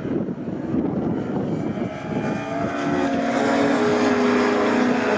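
Racing touring cars on the circuit. About halfway in, one car's engine note comes in clearly and grows louder as it approaches, then holds steady.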